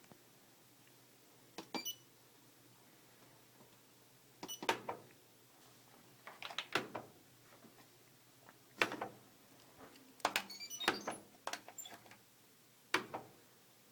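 Fisher & Paykel Trusty Aquasmart washing machine making irregular sharp clicks and knocks in short clusters, some with brief high beeps, as it fails to start up. The clicks come about seven times over the stretch.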